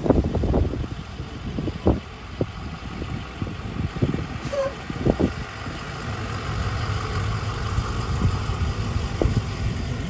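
A vehicle driving, with a steady low rumble of engine and road noise heard from inside the cabin and a few short knocks and thumps along the way.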